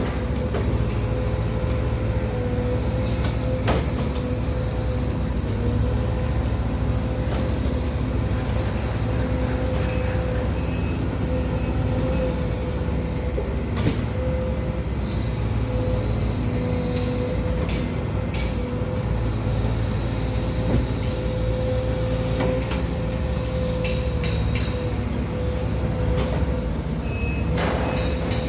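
An engine running steadily at constant speed with a steady hum. Light clicks and taps are heard now and then, the clearest around halfway through and near the end.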